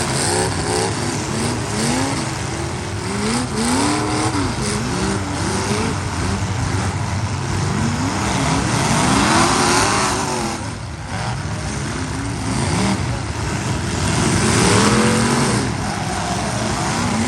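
Several demolition derby cars' engines revving up and dropping back again and again, their rises and falls overlapping over a steady noisy din.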